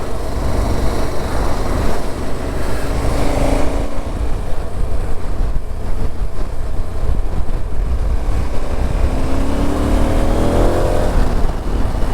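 Motorcycle riding at speed in wind and rain: heavy wind buffeting on the helmet microphone. An engine rises in pitch as it accelerates, about three seconds in and again near the end.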